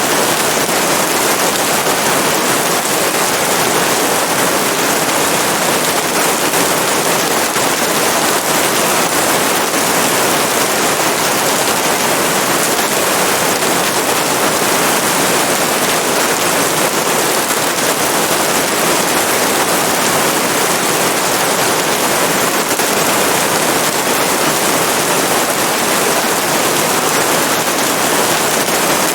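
Steady heavy rain: an even, unbroken hiss of many drops with a fine crackle, at a constant level.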